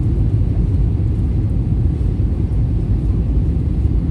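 Steady low rumble of an Airbus A321neo heard from inside the passenger cabin, with no distinct events.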